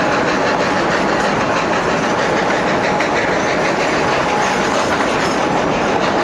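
Durango & Silverton narrow gauge steam train heard from aboard: the steady rolling noise of the coaches on the track, with wheels clicking over the rail joints.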